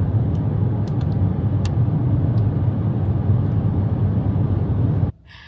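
Steady road and engine noise of a car driving, heard from inside the cabin, with a few faint clicks about a second in.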